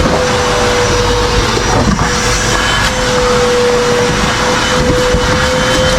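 A vacuum cleaner running steadily with a high, even whine over a loud rush of air.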